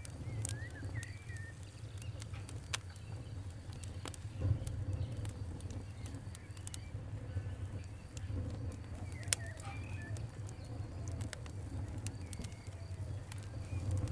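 Fire crackling, with sharp irregular pops over a low steady rumble. Birds call briefly about half a second in and again around nine seconds.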